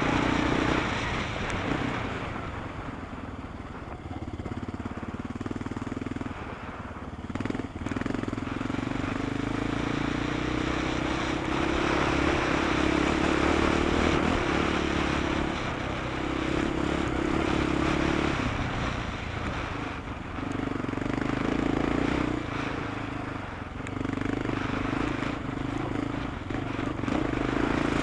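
Rally car engine running hard on a gravel stage, easing off briefly several times before pulling again, over the noise of tyres and wind.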